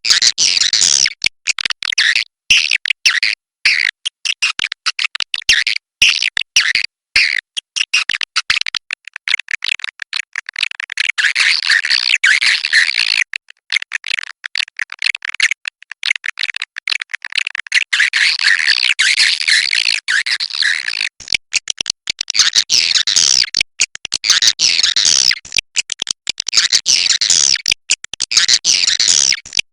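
Swiftlets twittering: a dense, high chirping chorus, broken by many short, abrupt gaps. It is a swiftlet 'inap' call, the kind of recording played in swiftlet houses to lure the birds in to roost.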